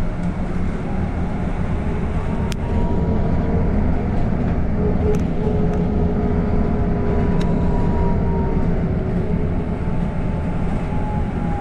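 Inside a moving city bus: a steady low rumble of the bus driving, with a faint whine that rises and falls slightly and a few light clicks or rattles.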